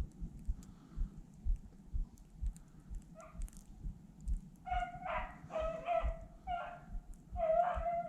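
Beagle baying on a rabbit's trail: a single call about three seconds in, then a quick run of drawn-out bays from about halfway on, the voice of a hound running a cottontail. Under it, steady footsteps plod through deep snow about twice a second.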